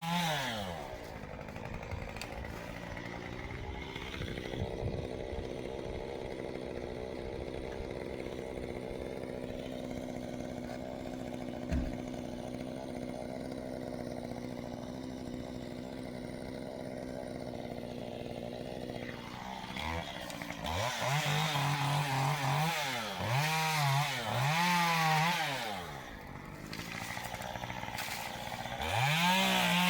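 Chainsaw engine dropping to a steady idle, then revved up and down over and over from about twenty seconds in.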